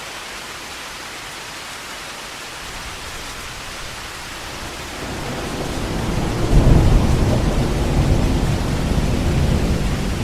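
Heavy rain falling with a steady hiss. About five seconds in, a low rumble of thunder swells, peaks a moment later and keeps rolling under the rain.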